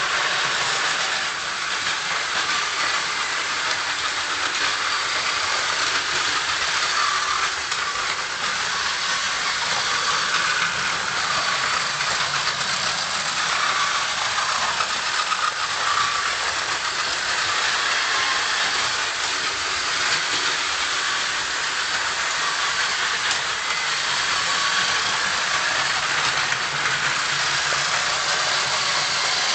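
Several battery-powered Plarail toy trains running together on plastic track: a steady whir of small motors and the rattle of wheels over track joints.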